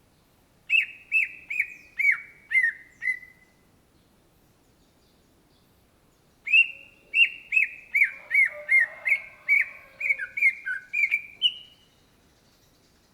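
Greater green leafbird (cucak ijo) singing two rapid runs of short, sharply down-slurred notes, each run stepping lower in pitch. The first run of about six notes comes about a second in; a longer run of about a dozen notes follows about halfway through.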